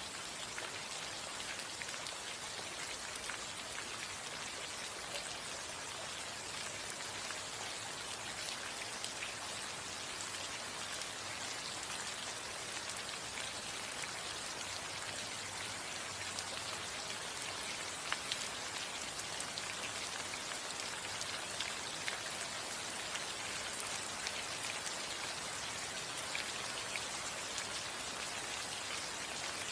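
Steady rain falling on a roof: a dense, even patter with scattered sharper drop ticks.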